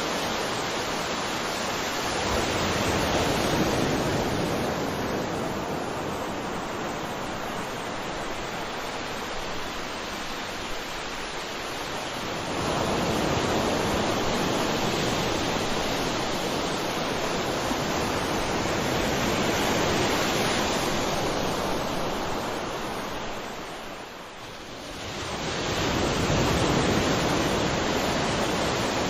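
Sea waves breaking and washing on a shore: a continuous rush of surf that swells and eases every several seconds, with a short lull near the end before the next wave surges in.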